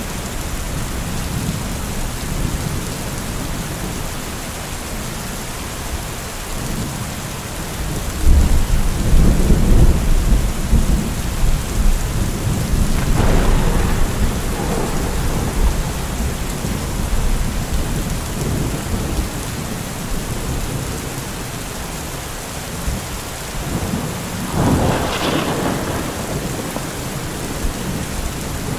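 Heavy rain falling steadily, with thunder: a deep rumble that starts about a third of the way in and runs for several seconds, and sharper cracks of thunder about halfway through and again near the end.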